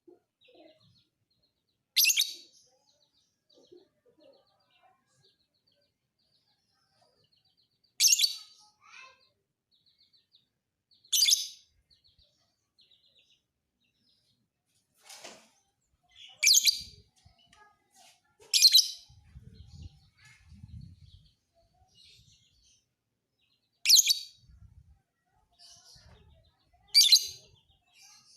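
Lovebird calling in short, shrill, high-pitched bursts: about seven loud calls a few seconds apart, with fainter chirps between them.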